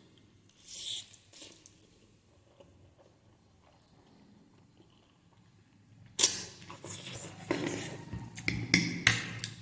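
Eating sounds of spicy Korean instant noodles: a short mouth sound about a second in, then, after a few quiet seconds, a run of slurping and chewing over the last three seconds or so.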